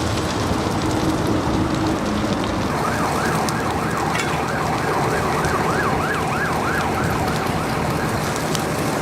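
Emergency vehicle siren yelping, a fast rising-and-falling wail about two to three times a second, over a steady rushing noise. The siren comes in about three seconds in and fades near the end.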